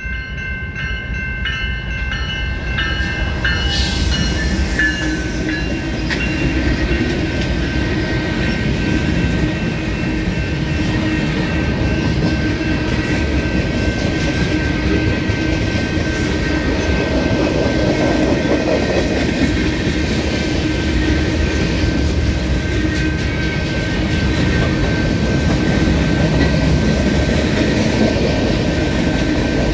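A long mixed freight train passing close by: the GE diesel locomotives come up, the sound growing over the first few seconds, then a steady rumble and clatter of freight car wheels rolling over the rails.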